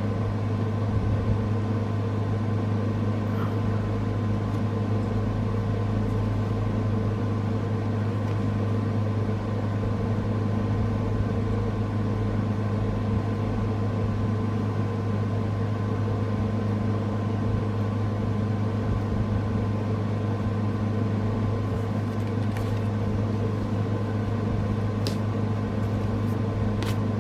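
A steady low electrical hum, like a fan or appliance motor running, with a few faint clicks near the end.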